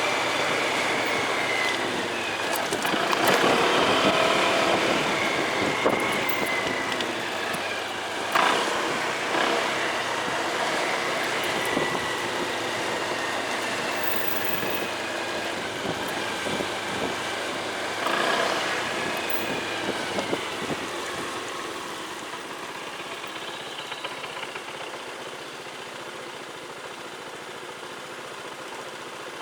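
Motorcycle on the road: engine and road noise, with a few short knocks, growing quieter over the last several seconds.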